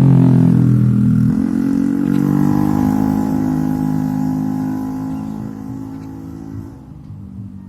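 A motor vehicle engine running close by. It changes pitch about a second in, then fades away over the following seconds.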